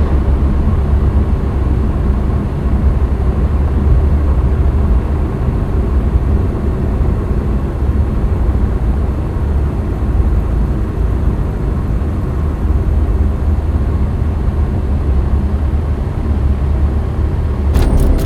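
Cessna 172's engine and propeller heard from inside the cabin: a loud, steady low drone that holds the same pitch throughout.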